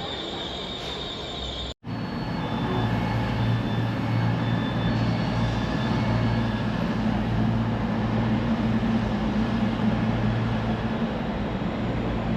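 Train wheels squealing on the rails; after an abrupt cut, a train's steady low drone.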